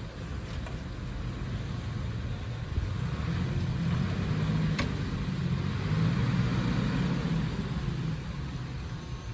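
Diesel engine of heavy earthmoving machinery running, growing louder about three seconds in and easing off near the end, with a single sharp click about midway.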